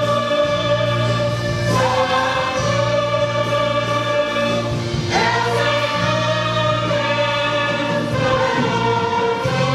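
Church orchestra playing a slow hymn: sustained chords over a steady bass, moving to a new chord every second or two.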